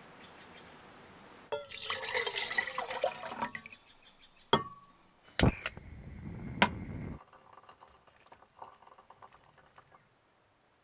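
Water splashing and pouring in short irregular bursts, with three sharp knocks in the middle and faint clicks afterwards.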